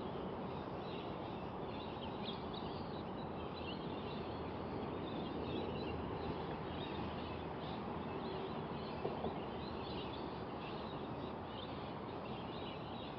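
Steady creekside outdoor ambience with faint, scattered bird calls throughout.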